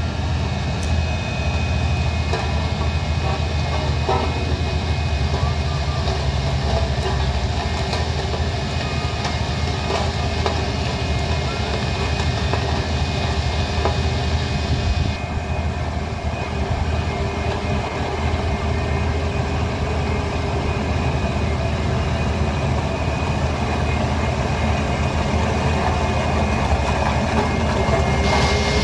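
Heavy truck diesel engine running steadily with a low rumble.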